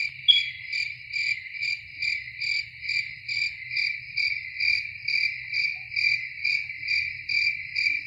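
Crickets chirping in a steady, even rhythm, a little over two chirps a second.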